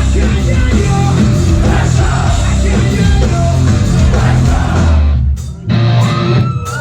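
A ragga-metal band playing live and loud, with heavy distorted guitars, bass, drums and vocals. The band breaks off briefly about five seconds in, then comes back with sliding pitched notes.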